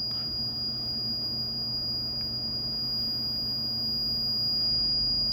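A steady high-pitched electronic tone over a low steady hum and room noise.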